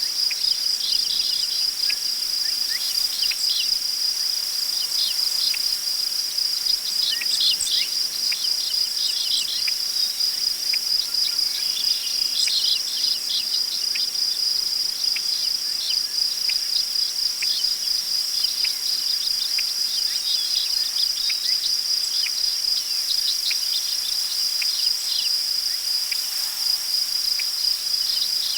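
Crickets chirping steadily in a continuous, finely pulsing high-pitched chorus, with scattered short bird chirps on and off over it.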